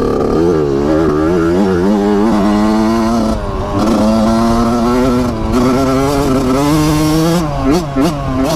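Dirt bike engine running under throttle, its pitch rising and falling as the rider works the throttle, with brief drops in the engine note about three and a half and five and a half seconds in.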